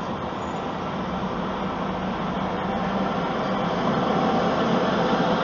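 Steady road and engine noise heard from inside a moving vehicle's cabin, with a low steady hum, getting somewhat louder about three to four seconds in.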